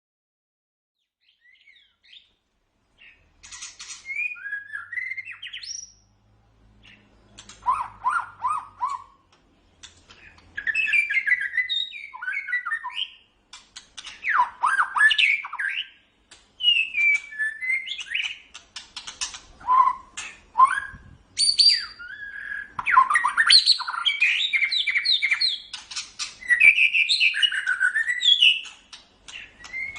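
White-rumped shama (murai batu) singing: a string of varied, rapid whistled and chattering phrases, some with sharp clicking notes, separated by short pauses.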